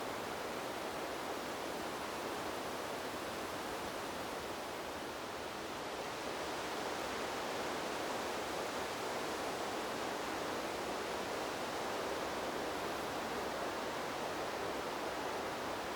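Steady rushing wind in trees, an even noise with no distinct gusts or other sounds. It dips slightly about five seconds in, then swells a little.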